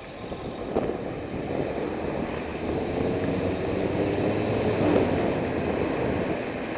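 A motor vehicle passing close by, its engine drone and tyre noise growing louder over the first couple of seconds and then holding steady.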